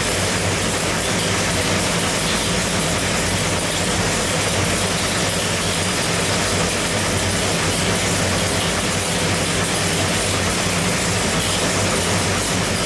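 572-cubic-inch big-block Chevrolet V8 running at a steady idle on an engine dyno, with no revving.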